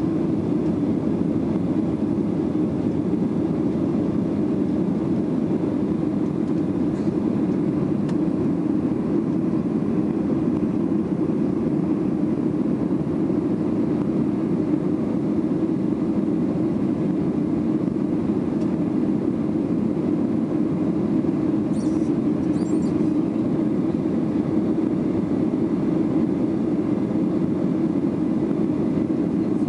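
Steady cabin drone of a Boeing 737-800 climbing after takeoff: its CFM56-7B turbofans and the rushing airflow, heard from inside the cabin, low and even with no change in pitch.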